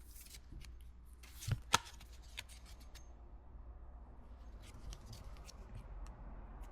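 Pokémon trading cards being handled and sorted: light rustles and slides of card stock, with a sharper click about a second and a half in.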